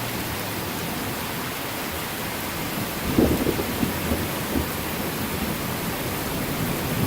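Heavy rain falling steadily, with a roll of thunder rumbling in about three seconds in and dying away over a second or two.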